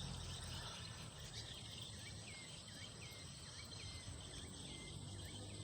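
Wetland insect chorus: a steady high buzz with a rapid run of short chirps, about three a second, from a small calling creature.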